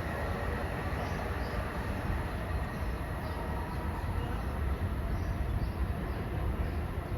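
Long Island Rail Road train rolling through the station with a steady rumble of wheels on rails.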